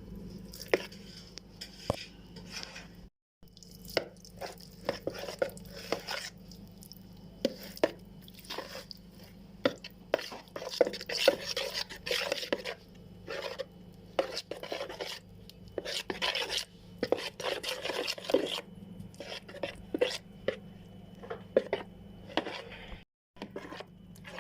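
Kitchen food preparation: irregular knocks, clicks and scrapes of utensils working in a bowl or on a board, denser in two stretches in the middle, over a steady low hum.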